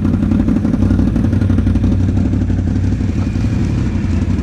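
ATV engine running at a steady pitch, with a fast rattle over it.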